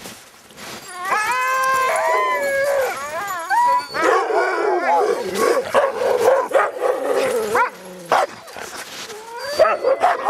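A team of sled dogs howling and yipping together, many overlapping rising and falling calls. The chorus dips briefly near the end and then picks up again.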